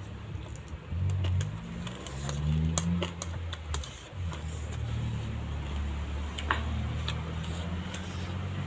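Close-up eating sounds of someone eating chow mein noodles: scattered wet mouth clicks and chewing, over a low steady rumble that swells about a second in and briefly rises in pitch near three seconds in.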